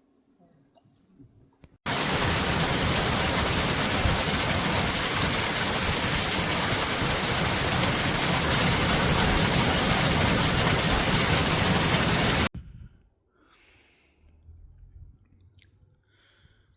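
Heavy rain: a loud, steady, even rush that starts abruptly about two seconds in and cuts off abruptly about four seconds before the end.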